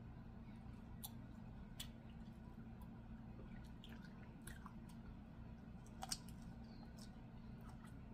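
Quiet chewing with scattered small clicks over a low steady hum; one sharper click about six seconds in.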